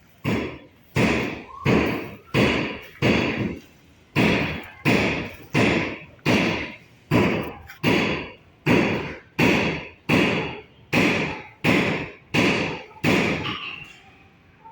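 A steady run of heavy thuds, about three every two seconds, each dying away quickly. There is a brief pause about three seconds in, and the thuds stop near the end.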